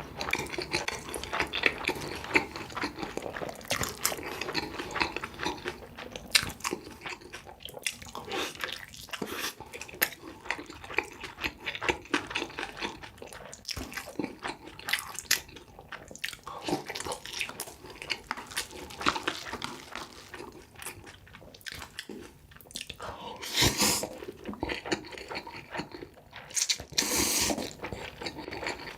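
Close-miked eating: a person biting and chewing noodles, with a dense, irregular run of short wet mouth clicks and crunches.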